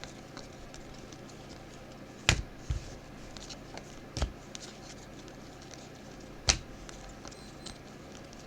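Chrome trading cards being handled by hand: three sharp snaps or clicks, a few seconds apart, with light ticking in between as the cards are flipped through.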